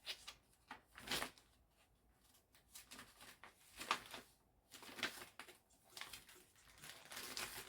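Scattered rustling and light knocks of small items being handled and sorted out of a box, coming in irregular short bursts.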